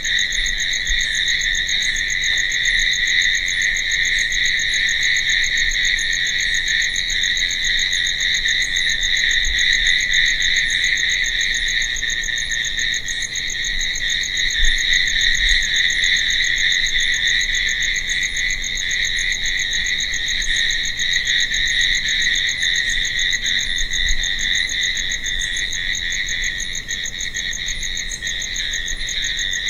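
A dense, steady chorus of crickets chirping at night, with a continuous trill and faint higher chirps repeating about once a second.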